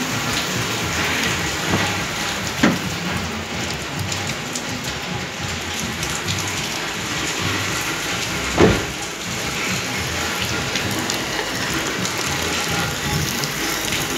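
Steady rain falling, with two short dull thumps, one about two and a half seconds in and a second a little past the middle.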